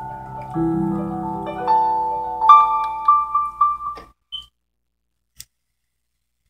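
Piano playing the closing chords of a song, ending on a few repeated high notes and stopping about four seconds in. A single faint click follows.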